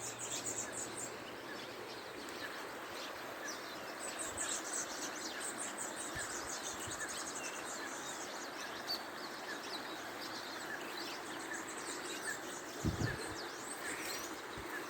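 Many birds chirping and calling, short quick notes throughout, over a steady even hiss; a brief low thump near the end.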